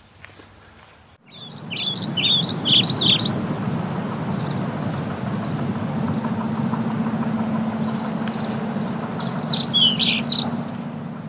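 A songbird singing two quick runs of varied chirping notes, one soon after the start and one near the end, over a steady low background hum.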